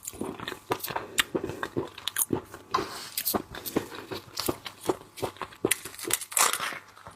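Close-up mukbang eating sounds: irregular wet biting, smacking and crunchy chewing of raw seafood.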